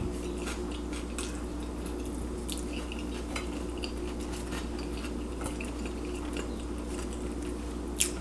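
Faint scattered clicks and soft squishy mouth sounds of someone eating a torta sandwich, over a steady low hum.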